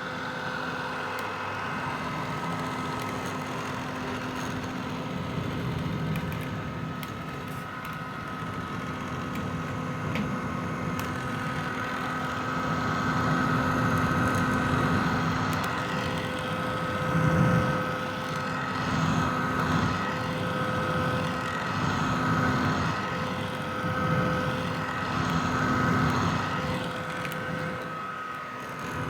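Vintage hair dryer running: a steady rush of blown air over a constant motor whine. From about twelve seconds in it swells and eases in loudness several times, loudest about halfway through.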